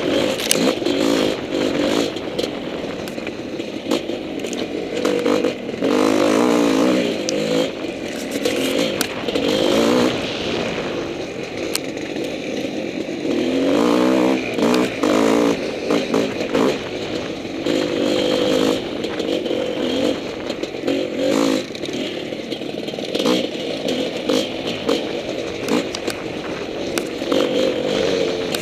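Honda CR500's 500 cc single-cylinder two-stroke engine revving up and down again and again as the dirt bike is ridden over trail, with frequent clattering knocks from the bike over rough ground.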